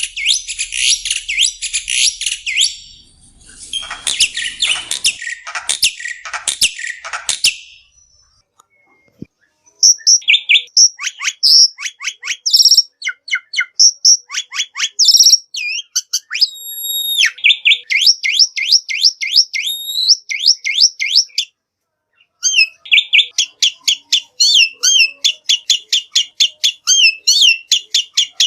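Black-winged myna (jalak putih) singing: dense, scratchy chattering for the first several seconds, then after a short pause fast runs of sharp chirps and whistled notes, broken by another brief pause a little past two-thirds of the way through.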